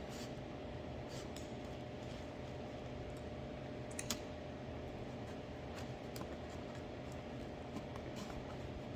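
Faint, scattered small clicks over a steady background hum with a faint steady tone; one sharper click about four seconds in.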